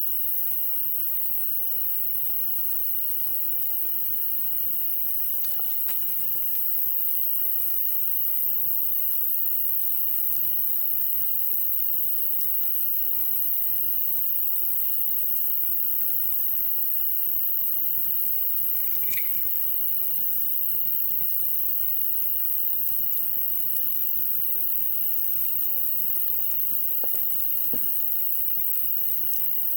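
Wood campfire burning with scattered faint crackles and pops, over a steady high insect trill and evenly repeated insect chirps.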